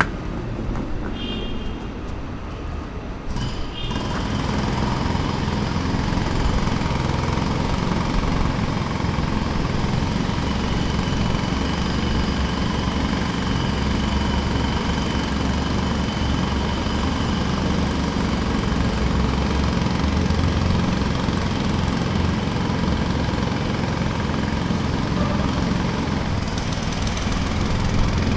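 Jackhammer hammering steadily. It is lighter for the first few seconds, then runs at full rate from about four seconds in.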